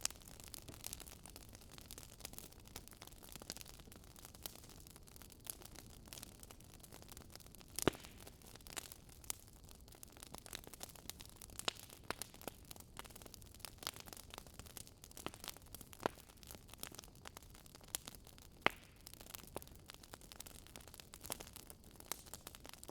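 Campfire crackling: irregular sharp pops and snaps of burning wood over a faint steady hiss.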